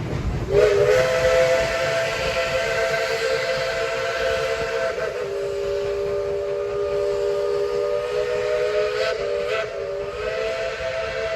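Steam locomotive No. 12's whistle sounding a long blast of several notes at once, starting about half a second in. The chord shifts in pitch about halfway through and again near the end.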